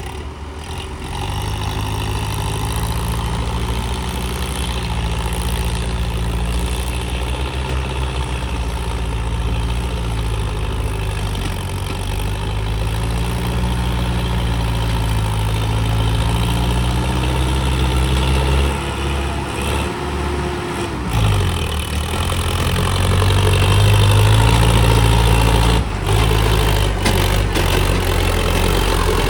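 Sonalika diesel tractor engine running under load, its pitch wavering. About two-thirds of the way through the engine note drops sharply, then picks up and runs louder.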